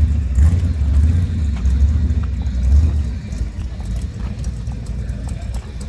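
A car's engine with a low exhaust rumble, loudest for the first three seconds and then easing off.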